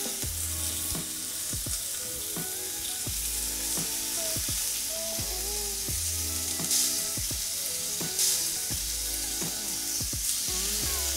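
Monkfish and prawn skewers sizzling in hot olive oil in a non-stick frying pan as they are turned over, the sizzle flaring up briefly twice past the middle.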